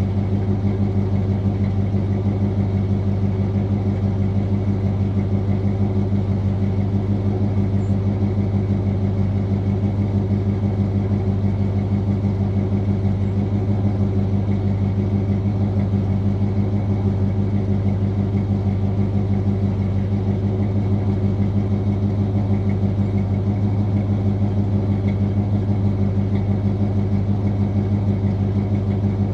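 1981 GMC C10's 350 small-block Chevy V8 with a 750 Quadrajet, idling steadily through long-tube headers and Thrush welded mufflers with an even exhaust pulse, warming up after a cold start.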